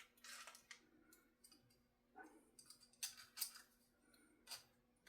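Faint, scattered clicks and light scrapes of small guitar hardware and hand tools being handled during assembly, a few short touches spread over a few seconds.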